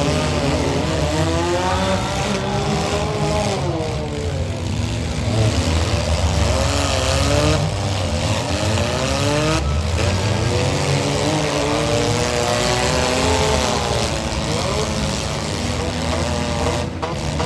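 Engines of several compact demolition derby cars revving up and down together, their pitches rising and falling again and again as the cars push and ram each other.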